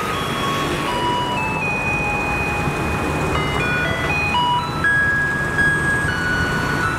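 Taiwanese garbage truck's loudspeaker playing its simple electronic melody, a tune of single held notes that signals residents to bring out their rubbish, over the truck's engine running.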